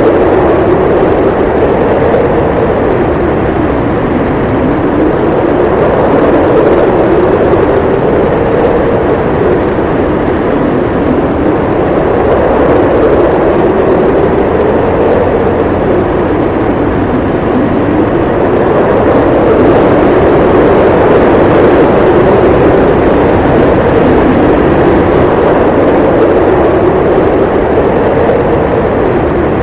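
Howling snowstorm wind: a steady rush of noise with a howling pitch that slowly wavers up and down every few seconds.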